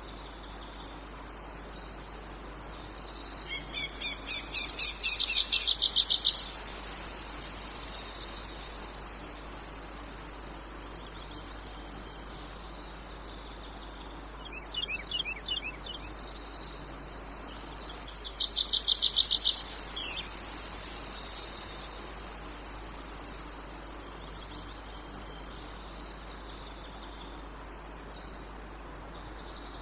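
Chorus of insects, a steady high-pitched shrill that swells and fades twice. Three bouts of quicker, lower pulsed trilling cut through it.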